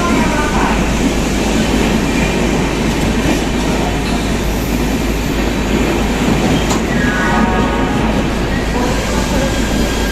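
Sealdah Rajdhani Express train running on the rails: a loud, steady rumble and rattle of its wheels, with a single sharp clank about two-thirds of the way through.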